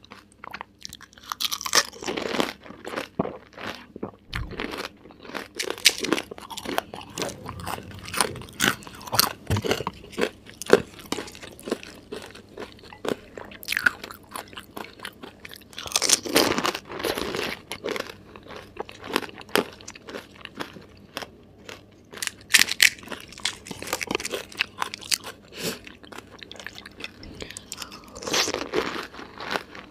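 Close-miked eating of pani puri: crisp, hollow puri shells filled with mint water crunch between the teeth, with wet chewing in between. Louder bouts of crunching come every few seconds as fresh puris are bitten.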